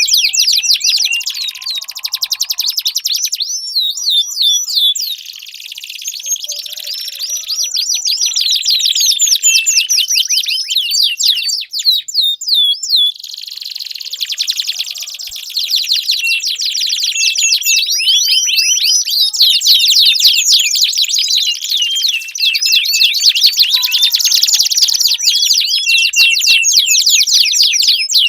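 Domestic canary singing a long, fast, high-pitched song of rolling trills and warbles, with a brief break about twelve seconds in.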